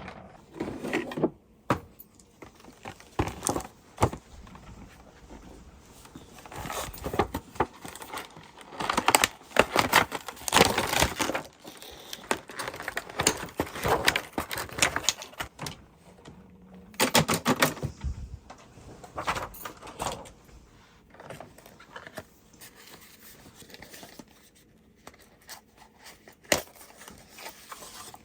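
Rapid clicking and clattering of hard objects being handled, in runs of quick knocks with short pauses between.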